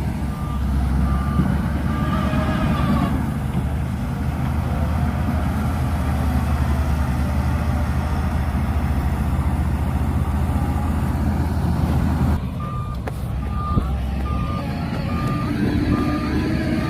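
Shantui DH17C2 crawler bulldozer's diesel engine running steadily under load. Its reversing alarm beeps at an even pace for a few seconds at the start and again over the last few seconds as it backs up.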